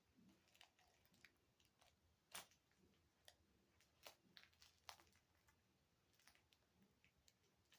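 A cat chewing and biting on a baby toy: faint, irregular clicks and crunches, with one sharper click about two and a half seconds in.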